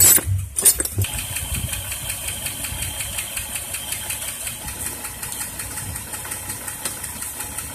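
Jeep Grand Cherokee's straight-six engine idling steadily under the open hood, with a couple of sharp metal tool clinks in the first second.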